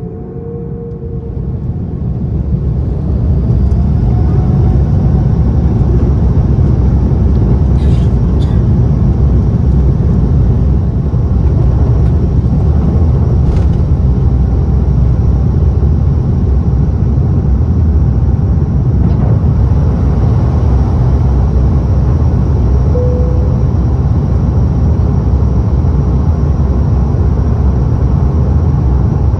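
Cabin noise of an Airbus A330-900neo with Rolls-Royce Trent 7000 engines. A low rumble grows louder over the first three seconds, then holds steady and loud, as the engines spool up for the takeoff roll.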